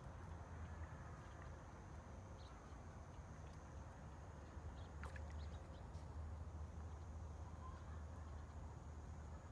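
Faint steady ambient background: a low hum with a thin, high, steady whine and an even hiss, broken by a few faint ticks, one slightly clearer about five seconds in.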